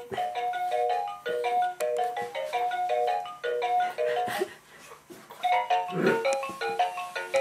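Electronic melody of short chiming notes played by a baby's rainforest playmat gym toy in its music mode, pausing briefly just past the middle.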